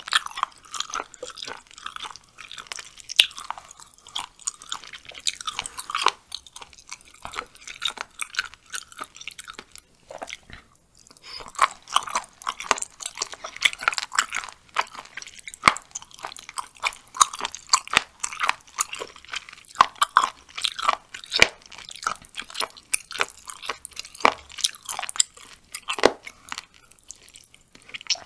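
Close-miked chewing of raw seasoned chicken, with crunchy, wet bites and quick clicks as it is chewed in an irregular rhythm. The chewing pauses briefly about ten seconds in.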